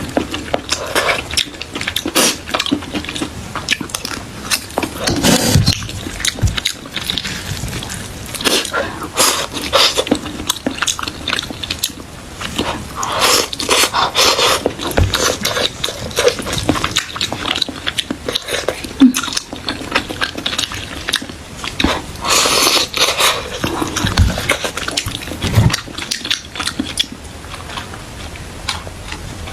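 Close-miked chewing and biting: wet mouth smacks and clicks from a person eating.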